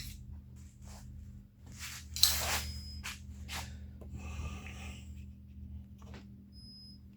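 Hands working with tools and parts on an outboard motor: scattered clicks, rubs and scrapes, the loudest a sharp scrape about two seconds in, over a steady low hum.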